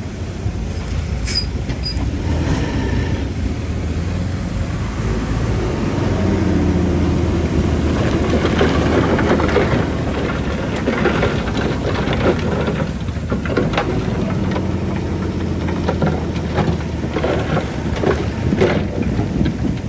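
Crawler bulldozer's diesel engine running steadily under load, with irregular metallic clanking and rattling from its steel tracks; the engine grows louder about six seconds in.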